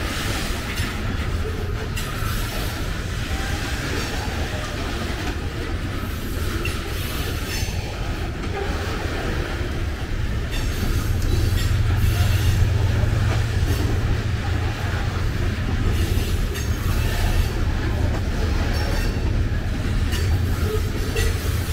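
Covered hopper cars of a freight train rolling past close by: a steady low rumble with the clickety-clack of steel wheels over the rail joints. The rumble grows louder about halfway through.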